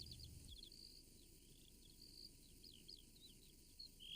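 Faint birdsong: quick, high chirps and short whistles scattered throughout, a little louder near the end.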